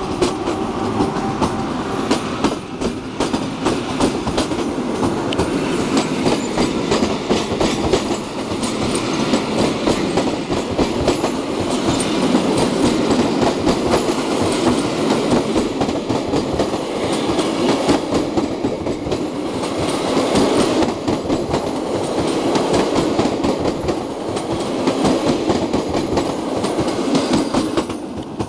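A long passenger train's coaches passing close by, their wheels clattering over the rail joints in a dense run of clicks over a steady rumble and hiss. A steady hum is heard at first and fades after about two seconds. The level drops as the last coach goes by at the end.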